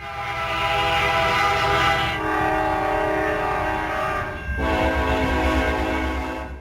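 Locomotive air horn sounding a loud multi-note chord in three long blasts run close together, the chord shifting slightly at each change, over a low rumble. The sound cuts off abruptly near the end.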